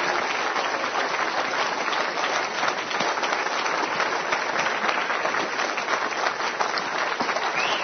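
Congregation applauding steadily in a church hall.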